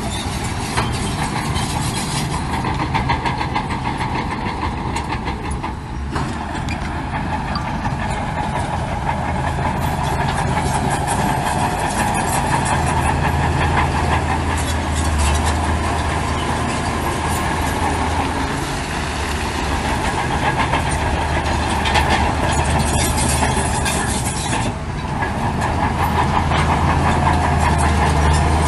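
Heavy diesel earthmoving machinery running, with a dense metallic clatter over a low engine drone. The engine grows louder about halfway through and again near the end.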